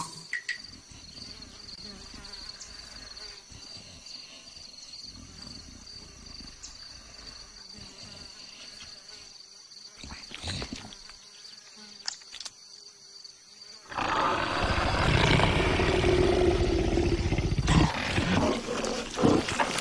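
A loud, rough animal roar that starts suddenly about fourteen seconds in, after a long quiet stretch with only a faint steady whine.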